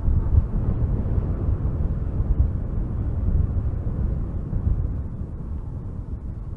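Strong wind gusting through spruce trees: a deep rushing rumble, louder through the first few seconds and easing toward the end.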